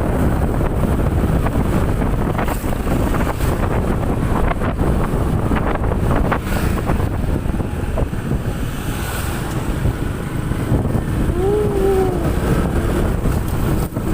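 Wind buffeting the microphone of a moving motorcycle, a loud steady rush with road and engine noise beneath it. About eleven seconds in, a short tone wavers up and down for about a second.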